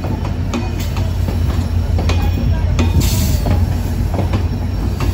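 Passenger train coaches rolling past on the track, a steady low rumble with the wheels clicking irregularly over rail joints.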